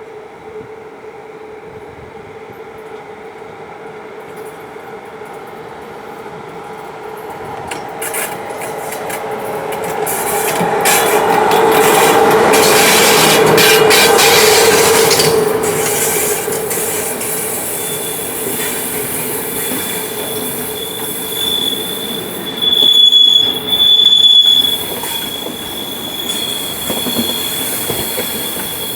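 A train running through a station: it builds up and passes close, loudest about halfway through, with wheels clicking over rail joints. From a little past halfway a high-pitched wheel squeal sets in and holds on, rising sharply twice near the end.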